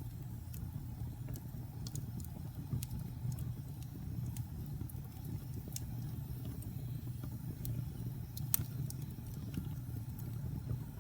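Wood fire in a fireplace crackling, with irregular sharp pops and snaps over a steady low rumble of burning, one louder pop about three-quarters of the way through.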